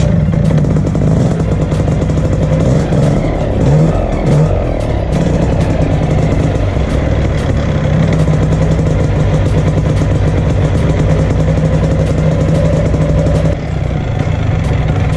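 Two-stroke paramotor engine running at a steady idle, with a brief rise in revs about four seconds in and a dip in level near the end. The owner thinks it is running a little rich, which he takes for the cause of it bogging and dying down.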